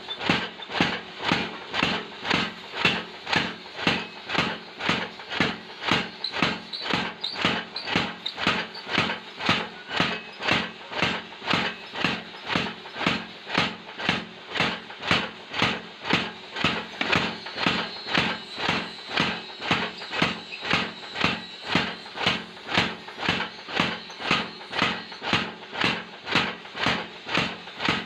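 Blacksmith's power hammer striking metal in a steady, even rhythm, about two and a half blows a second, over a faint machine hum.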